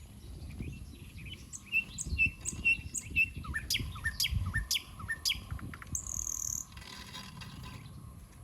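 Small birds chirping: a quick run of short, repeated high chirps and falling notes over the first half, then a brief high trill about six seconds in, over a low rumble.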